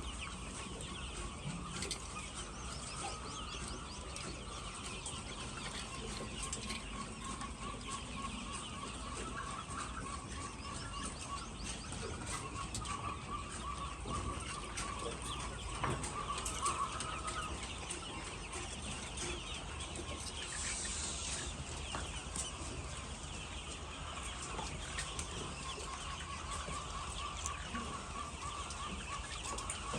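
A flock of many laying hens clucking together in a steady din, with drawn-out, repeated calls standing out now and then.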